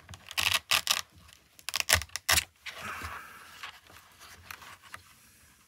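Close handling noise of a motorcycle helmet's interior: a few sharp clicks and short rasps as cables and lining pieces are pushed into place, then a softer scraping rustle about three seconds in.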